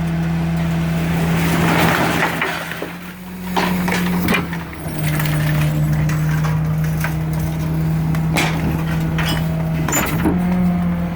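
Garbage truck's Caterpillar C7 diesel running steadily to drive the hydraulics, its pitch stepping down about five seconds in and back up near the end, while a dumpster is winched up and emptied into the rear hopper: a rushing of tipping trash about two seconds in and several metal clanks and bangs.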